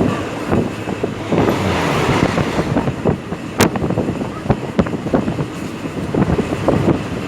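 Train running on the track, with a steady rumble, irregular clicks and knocks from the wheels, and wind buffeting the microphone. One sharp click about three and a half seconds in.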